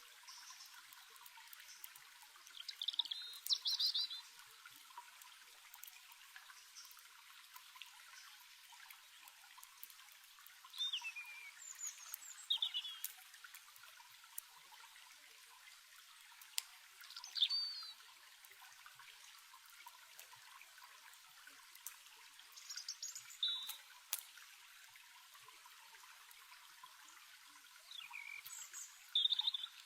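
Steadily trickling stream water with small birds chirping short, falling phrases about every five seconds, and occasional faint crackles.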